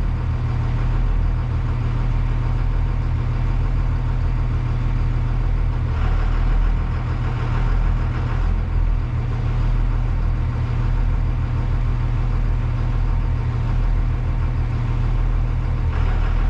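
School bus's 24-valve Cummins diesel idling steadily after its first start following five months of winter storage, heard from inside the bus.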